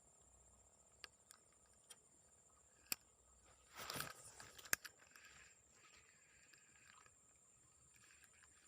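Mostly quiet, with a handful of sharp clicks and a short crackling rustle about four seconds in, over a steady faint high-pitched whine.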